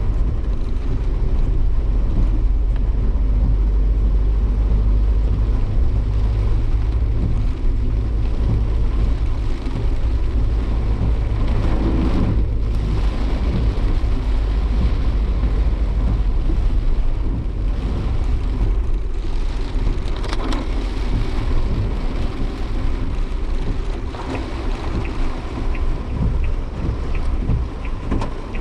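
Inside the cabin of a Suzuki Jimny Sierra on the move in typhoon weather: steady, heavy low engine and road rumble with a wash of rain and wind noise on the body.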